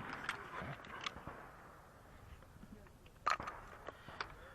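The last shot's report fading out, then quiet mechanical clicks of shotgun handling between shots, with a sharper clack a little over three seconds in and another click near the end.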